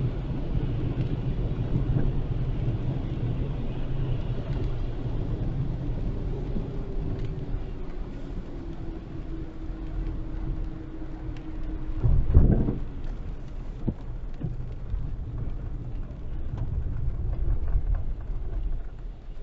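Heavy rain and a car driving on wet roads: a steady low rumble of rain and road noise, with a sudden loud low thump a little past the middle.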